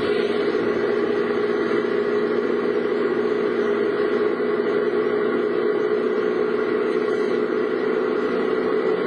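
Steady engine hum and noise of a car, heard from inside the cabin, with no change in pitch or level.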